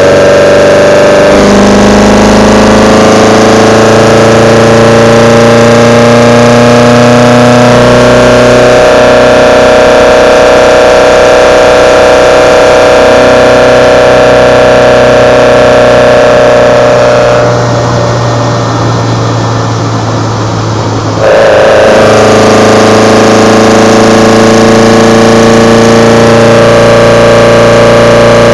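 Kadett GS 16v four-cylinder engine breathing through twin Solex C40 ADDHE side-draft carburetors, heard close at the intakes: a loud, steady induction sound that rises slowly in pitch as the engine pulls. About two-thirds of the way through it drops back and turns rough for a few seconds, then picks up again at a lower pitch and climbs once more.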